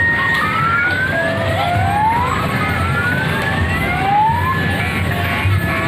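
Electronic siren sound effect, a series of rising whoops about one a second, over steady background noise and a low hum. It is the kind of toy police-siren sound that kiddie car rides play.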